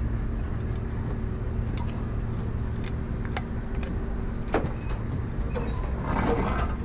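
A vehicle's engine running steadily, with a few sharp clicks at uneven spacing.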